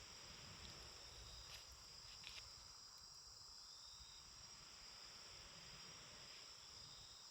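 Faint steady chirring of crickets, with a few faint pops from a wood campfire about one and a half and two and a half seconds in.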